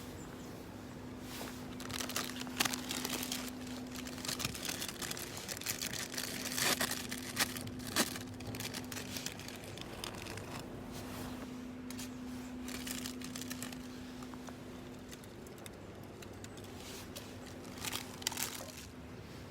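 Crinkling and tearing of wrapping being handled in irregular bursts, over a steady low hum.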